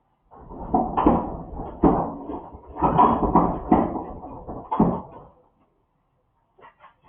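Clattering and knocking as a refrigerator is handled and moved, lasting about five seconds with several louder knocks among the rattling.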